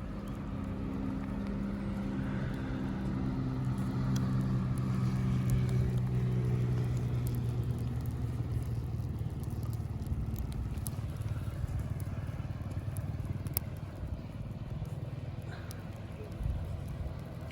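Engine of a passing motor vehicle, a low hum that swells over about five seconds and then fades away, with faint scattered crackles throughout.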